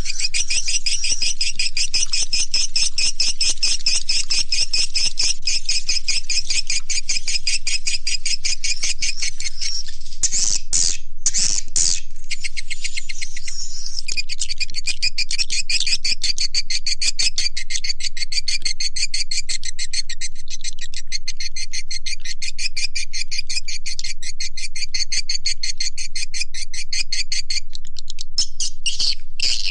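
Swiftlet call recording (suara panggil walet) played for swiftlet farming: rapid, dense chattering twitters of edible-nest swiftlets, loud and continuous, with a brief break into a few separate louder calls about ten seconds in.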